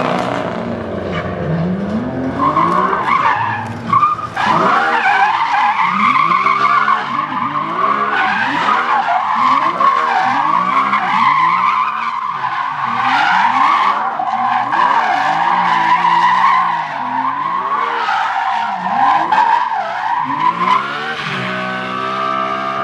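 A car drifting with its tyres squealing continuously while the engine revs rise and fall about once a second. Near the end the squeal stops and the engine holds a steadier note.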